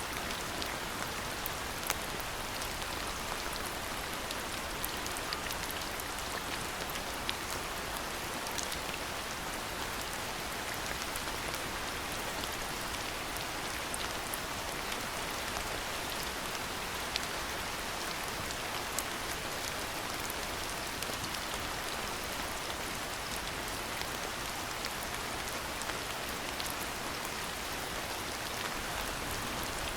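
Steady rain falling, an even hiss with many separate drops ticking through it.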